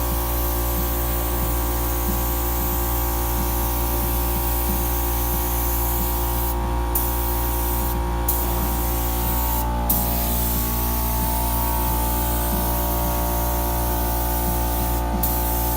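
Compressed-air spray gun spraying primer, a steady hiss that stops briefly four times as the trigger is let off and pulled again.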